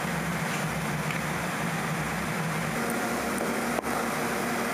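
Steady mechanical hum with a low drone, briefly cut by a short dropout about four seconds in.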